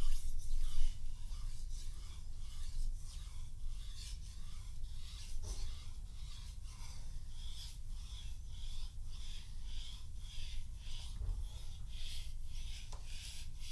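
Steel knife blade stroked back and forth on a wet 8000-grit polishing whetstone with light pressure: a soft hissing rasp, about two strokes a second, each stroke still taking off a little metal into a black slurry.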